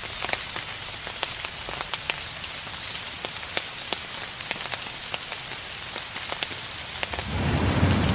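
Steady rain with many individual drops ticking on a surface. About seven seconds in, a low rumble of distant thunder swells up under the rain.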